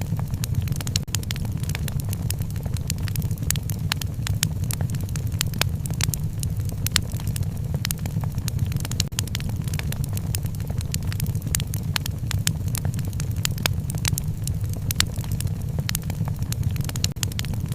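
Wood fire crackling in a fireplace: frequent sharp pops and snaps over a steady low rumble of the burning fire.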